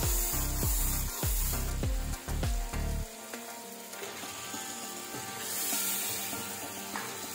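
Onion-tomato masala sizzling in a nonstick wok while a spatula stirs and scrapes it, louder in the first three seconds. Raw chicken pieces are then tipped in and sizzle as they start to fry.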